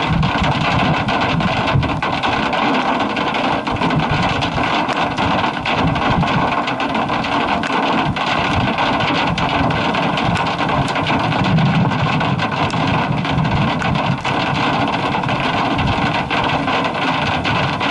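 Hail and heavy rain pelting a vehicle: a dense, steady hiss dotted with many sharp ticks of hailstones striking the body and glass, over a low uneven rumble of wind and the running vehicle.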